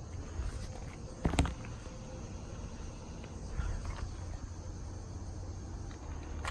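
Footsteps and light knocks, with one louder thump about a second in, over a steady low rumble.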